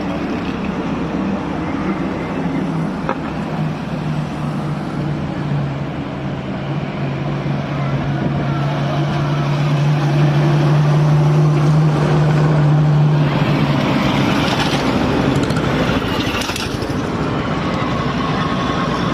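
Engines of vintage military vehicles running as they drive slowly past, a steady low engine hum that grows louder toward the middle and then gives way to a louder, rougher mix of engine and road noise.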